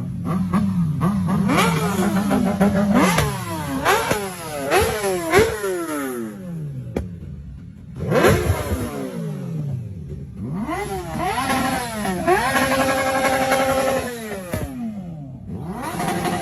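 Superbike engines revved hard through the exhaust: a rapid run of throttle blips, each pitch jumping up and falling away. After a cut come a few more blips, then revs held high for about two seconds.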